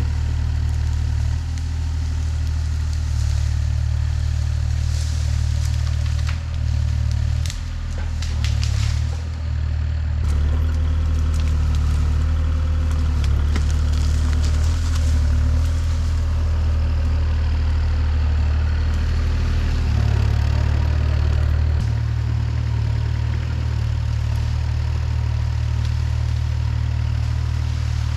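A large engine running steadily at a low pitch, as of a machine working at clearing land, with scattered cracks and clatter between about seven and ten seconds in.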